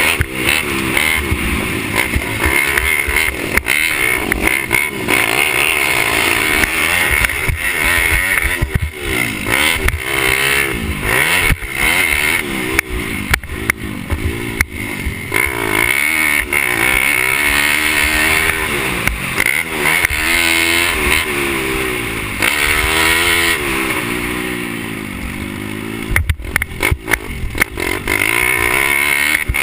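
Pit bike engine being ridden hard, its pitch rising and falling again and again as the throttle is opened and shut, with a few sharp clatters near the end.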